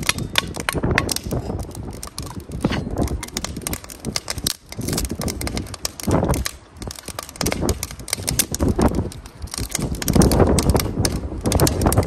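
Irregular clattering clicks and knocks, over a low rumble of strong wind on the microphone that grows louder near the end.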